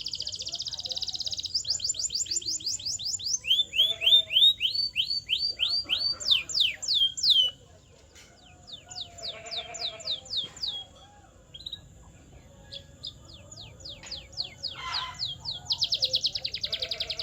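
Canary singing: fast trills of repeated falling whistled notes and dense rolling phrases, broken by a short pause about eight seconds in, then resuming with more trills.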